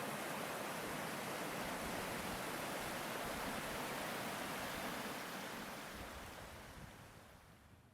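Steady rush of a waterfall, fading out over the last few seconds.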